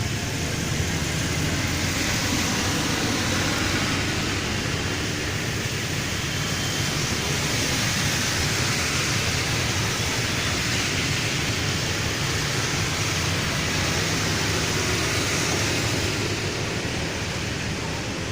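Road traffic on a wet road: a steady hiss of tyres on rain-soaked asphalt over a low engine hum. The hiss swells about a second in and eases off near the end.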